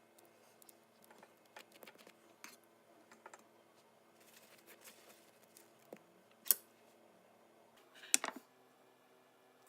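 Faint clicks, taps and light scraping of a utensil working caramel icing onto a cake layer, with two sharper clicks, one about six and a half seconds in and one about eight seconds in, over a faint steady hum.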